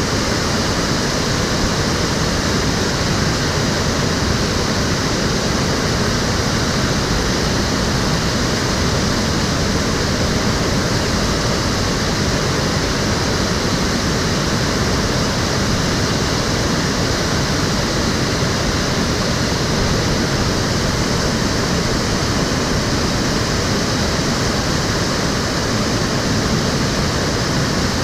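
Water of a city stream flowing and splashing in a steady, unbroken rush.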